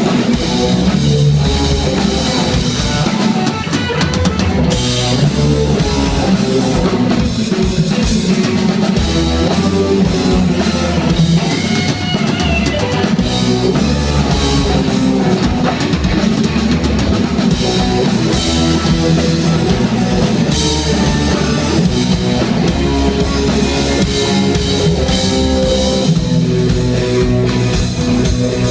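Live rock band playing an instrumental passage: drum kit, bass and electric guitar, loud and continuous.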